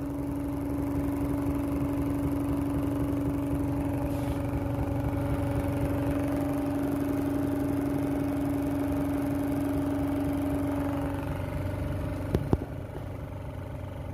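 Small electric motor of a Lenz's law motor-generator kit running steadily under generator load, with a strong steady hum. The hum's tone fades about 11 seconds in, then two sharp clicks come near the end and the running sound drops quieter.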